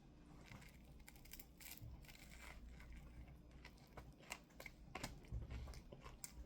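A person biting into and chewing a chicken sub sandwich: faint, irregular soft crunches and small mouth clicks.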